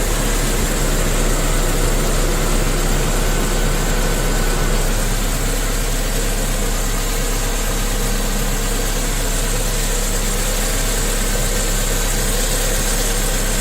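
1991 Honda Civic's four-cylinder engine idling steadily, run up to temperature to bleed air out of the freshly refilled cooling system after a head gasket repair.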